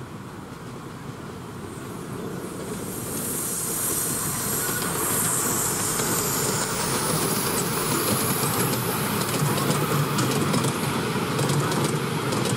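Miniature-railway train approaching and passing close by, growing louder over the first four seconds. A hiss comes as the locomotive draws level, then the wheels click rapidly over the rail joints as the passenger carriages roll past.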